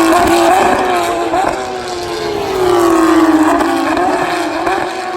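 Race cars at Le Mans going by in turn, each engine note falling in pitch as it passes. The second pass, about two seconds in, is the loudest.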